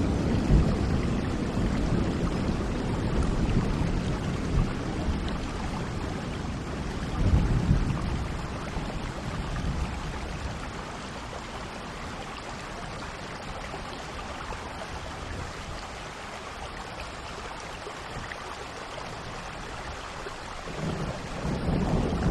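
Steady rain hissing, with low rumbles of thunder at the start, again about seven seconds in, and building near the end.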